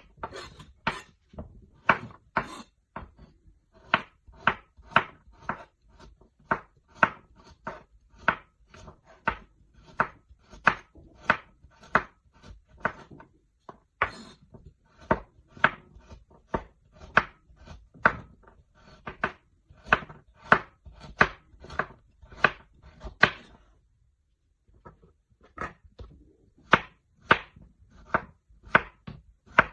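Knife chopping food on a cutting board in steady, rhythmic strokes, about three a second, with a short pause a little after two-thirds of the way through.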